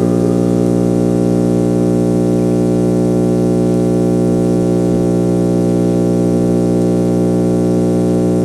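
Background music: a synthesizer drone holding one steady chord of many sustained tones.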